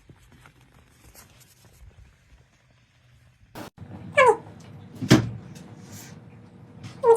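A pet animal gives two short cries, each falling in pitch, about three seconds apart, with a loud thump between them. The first half is nearly quiet.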